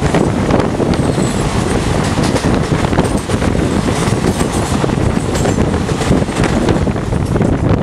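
Passenger train coaches rushing past close alongside on the adjacent track: a loud, steady rumble of wheels on rails with a continuous irregular clatter.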